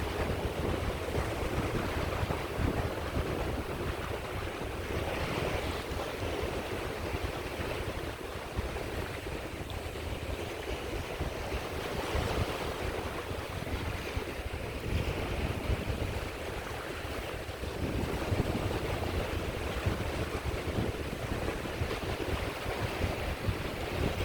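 Sea waves washing onto a shore: a continuous wash of surf that swells and eases every few seconds, with a low rumble of wind buffeting the microphone.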